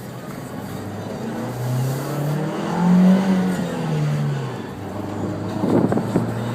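Turbocharged MultiAir four-cylinder engine of a 2013 Dodge Dart pulling under acceleration, heard from inside the car. The engine note climbs to a peak about three seconds in, drops back as the gear changes, and then holds steady after a brief burst of noise near the end.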